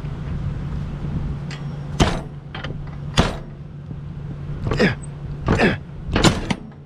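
Semi-truck's diesel engine idling with a steady low hum, under a few sharp metallic clanks about two and three seconds in and several more in the second half.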